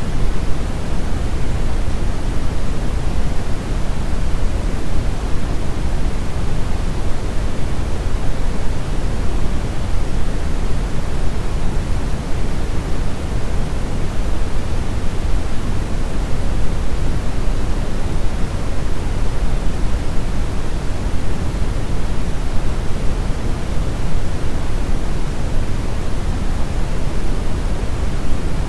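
Steady synthetic brown noise: an even, deep rushing hiss with most of its weight in the bass, unchanging throughout.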